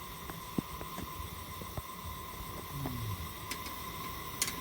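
Kerosene pressure lantern hissing steadily, with a few small sharp clicks and a cluster of clicks at the very end; the owner suspects its valve spindle is leaking.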